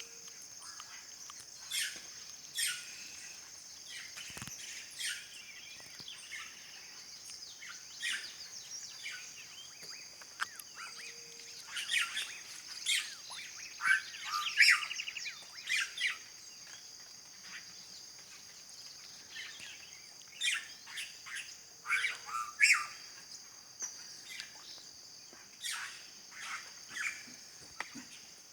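Red-rumped cacique (guaxe) song: a run of short separate calls, busiest in the middle, over a steady high-pitched insect chorus.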